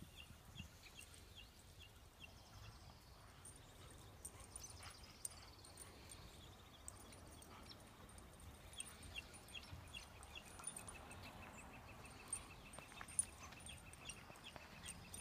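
Near silence: faint outdoor ambience with a bird chirping in short, evenly repeated high notes near the start and again in the second half, joined by a thin held high note toward the end.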